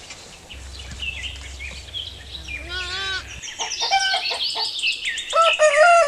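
Farmyard birdsong: small birds chirping and twittering repeatedly, with a louder, lower pitched call about three seconds in and several more near the end.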